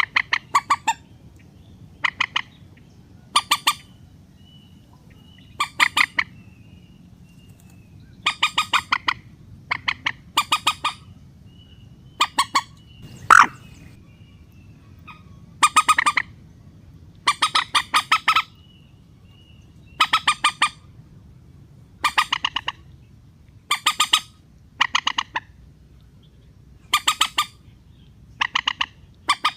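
Mandar (rail) calls: short bursts of rapid, harsh clucking notes, repeated every second or two, over a steady low hiss. It is a relaxed call used as a lure to bring the birds down.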